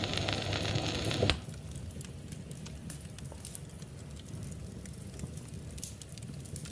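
Wood fire crackling in a fireplace: scattered sharp pops over a low steady rustle. The tail of a song's music cuts off about a second in.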